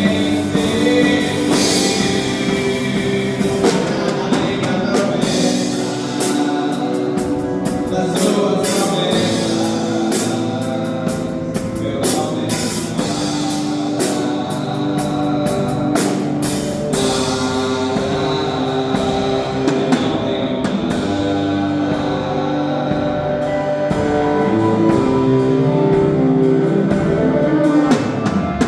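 A live band playing a worship song: drum kit with regular cymbal and drum strikes, guitar and held chords.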